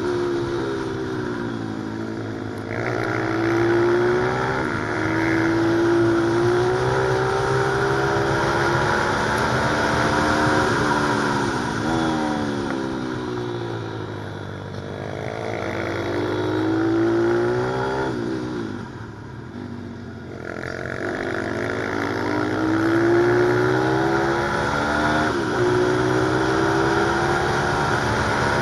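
Pit bike's small single-cylinder engine revving hard on track, its pitch climbing and falling again and again as it shifts up and backs off for corners, with a brief lull about two-thirds through.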